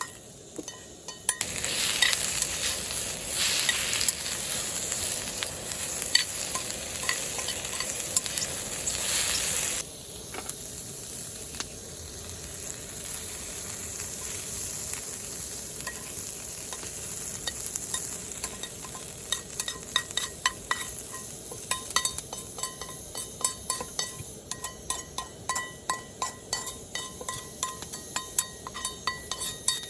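Meat searing in beef fat in a pan, sizzling loudly for the first ten seconds or so, then frying more quietly. Through the second half a metal utensil clinks against the pan many times as the meat is stirred and turned.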